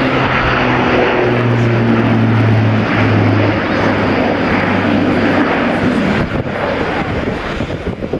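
Airbus A400M's four Europrop TP400 turboprop engines and propellers droning loudly in flight, with a steady propeller hum that drops slightly in pitch about three seconds in and fades out a couple of seconds later.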